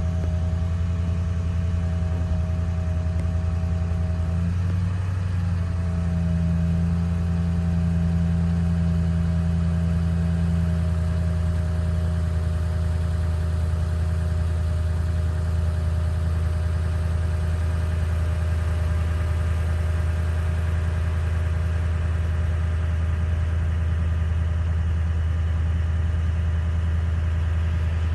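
A car's engine running, a steady low hum with no change in level; the steady tones waver briefly about five seconds in.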